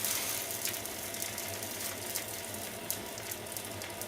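Food sizzling in a frying pan: a steady hiss with many small, irregular crackles and pops.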